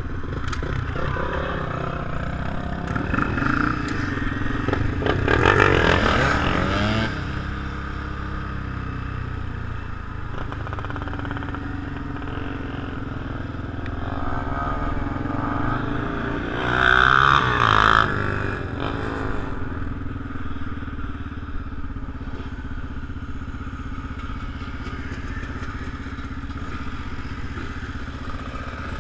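Quad bike engine running steadily, heard close up from the handlebars. Two louder surges of motorcycle engine revving, with gliding pitch, come about six seconds in and again around seventeen seconds in, as dirt bikes ride past.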